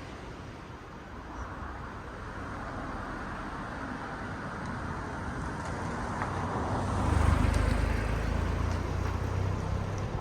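Sea surf: the rush of a wave swells over several seconds to its loudest about seven seconds in, with a deep rumble underneath.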